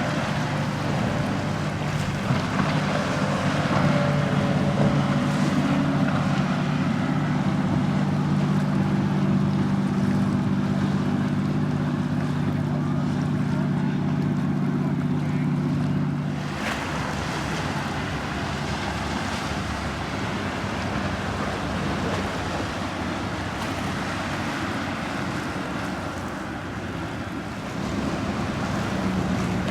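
A motorboat's engine hums steadily as it passes through the inlet, over wind on the microphone and waves. About halfway through the engine hum stops abruptly, leaving wind and surf, and an engine hum comes back near the end.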